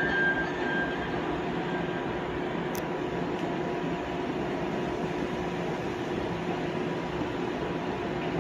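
Diesel train running steadily as it slowly approaches the platform.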